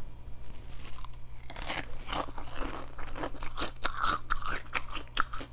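Crisp fried chicken skin being bitten and chewed with the mouth open, giving a quick, irregular run of sharp crunches from about a second and a half in.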